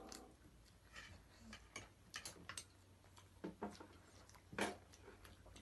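Faint eating sounds: scattered short wet clicks and smacks of chewing biryani and chicken, eaten with the hands, with one louder smack a little over halfway through.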